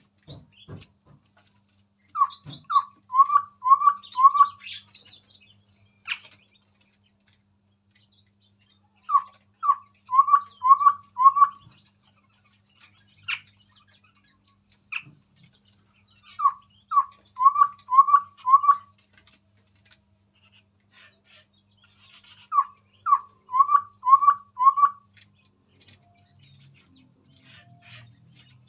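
Chestnut-rumped babbler singing: four phrases of five or six quick, low hooting notes each, repeated every six or seven seconds. Fainter, higher chirping and a few sharp clicks come between the phrases.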